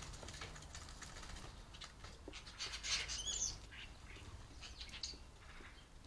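Garden birds calling faintly: scattered short chirps and clicks, with a brief louder whistled call about three seconds in.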